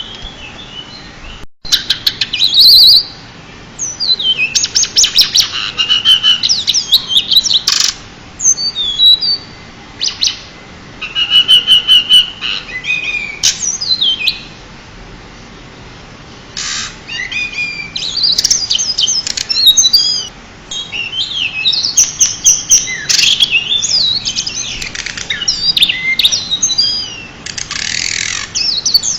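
Pied bushchat (decu) singing: loud bursts of rapid, high chirps and whistled notes, phrase after phrase with short pauses between.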